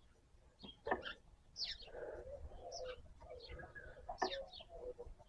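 Birds calling faintly: short high falling chirps over a low, drawn-out cooing note that runs from about two seconds in to the end. A few small clicks sound early on.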